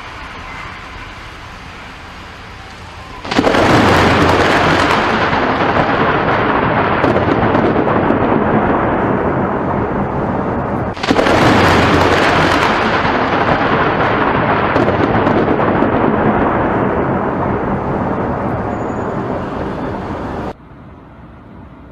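Two close thunderclaps from nearby lightning strikes, one about three seconds in and one about eleven seconds in. Each starts suddenly and rumbles away over several seconds, and the second cuts off abruptly near the end.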